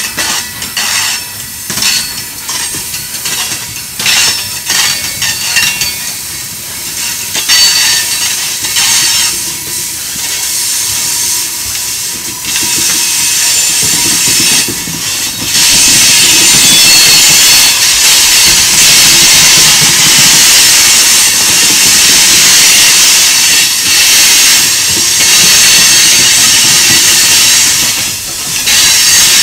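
Loaded rock hopper cars of a freight train rolling past, their wheels clacking and knocking over the rails. About halfway through, a loud steady high-pitched hiss from the passing cars takes over.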